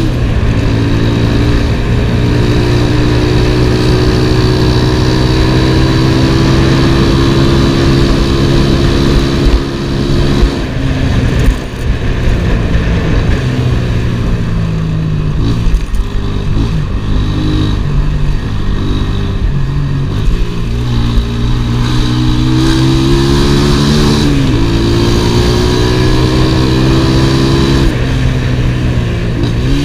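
Zamco motorcycle's engine running under way at steady revs, easing off about ten seconds in, rising and falling through the middle, then climbing again through the gears about two thirds of the way through, with wind rush over it.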